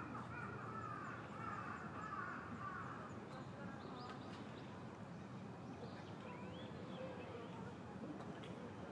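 Faint bird calls over a steady low background: wavering calls in the first few seconds, then a few short chirps.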